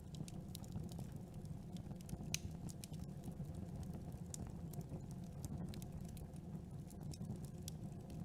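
Campfire burning: a steady low rumble of flames with frequent small, irregular crackles and pops, one louder pop a little over two seconds in.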